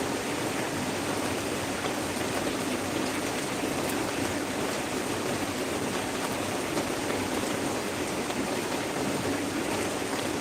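Heavy rain pouring steadily, an even hiss of water with no let-up.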